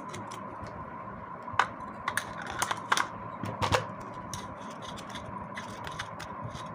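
Small metal tool clicks and knocks as the left-hand-threaded nut on a vacuum cleaner motor's fan shaft is worked loose, a handful of irregular sharp clicks grouped between about one and a half and four seconds in, over a faint steady hum.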